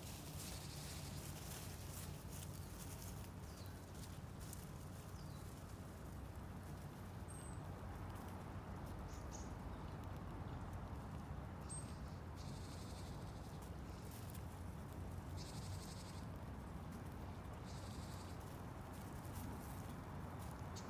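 Faint steady outdoor background noise with a low hum, broken by a few short, high chirps.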